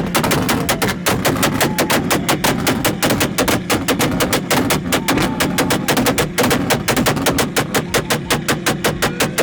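Car exhaust banging in a rapid machine-gun string of loud pops, several a second, as the engine bounces off a two-step launch limiter, the kind of setup that shoots flames from the exhaust.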